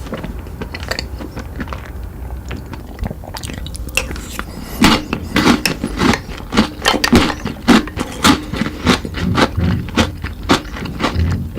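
Chocolate sweets being bitten and chewed close to the microphone. After a quieter opening stretch, loud crunches start about five seconds in, about three a second, over a low steady rumble.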